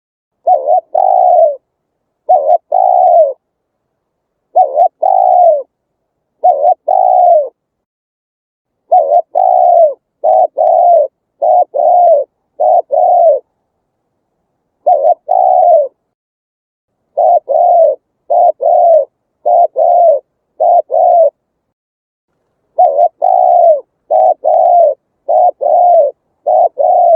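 Spotted dove cooing: short low coo notes, each arched in pitch, repeated in phrases of two to five notes with dead silence between the phrases.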